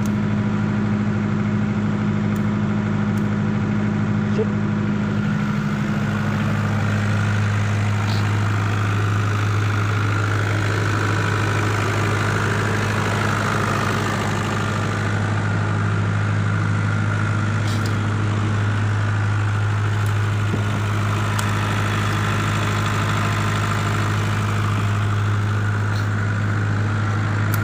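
Perkins 27 kVA diesel generator set running steadily under its own governor, a constant low hum; about six seconds in the deeper part of the hum grows stronger.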